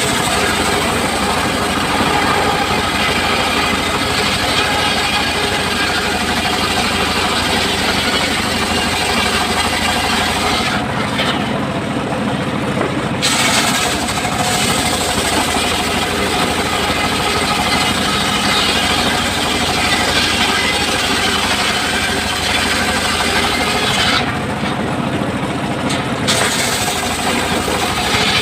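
A large circular saw blade cutting timber over the steady hum of its drive. The high hiss of the cut drops away twice for about two seconds.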